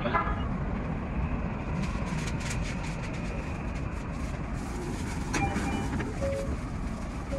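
Odakyu 5000 series electric train running, heard from the driver's cab: a steady low rumble, with a run of light clicks from the wheels about two to three seconds in and a few short electronic tones a little after five seconds.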